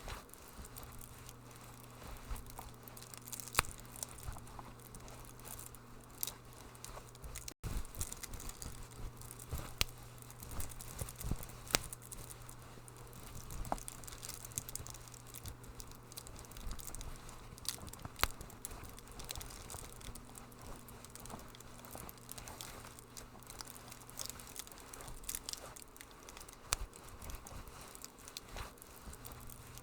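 Wood fire crackling in a fireplace: irregular snaps and pops over a low, steady hum, with a momentary break in the sound a little over seven seconds in.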